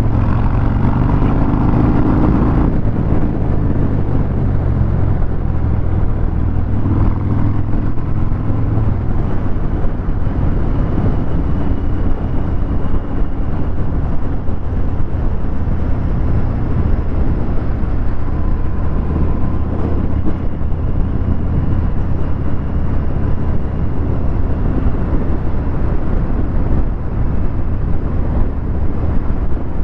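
Harley-Davidson Fat Bob 114's Milwaukee-Eight V-twin running through a Vance & Hines Hi-Output 2-into-1 exhaust while riding in traffic. It is a little louder for the first couple of seconds, then runs steadily with wind noise over it.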